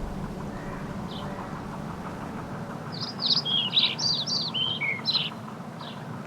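A songbird singing: a quick two-second phrase of varied, falling high notes starting about three seconds in, with single chirps before and after it, over a steady low hum.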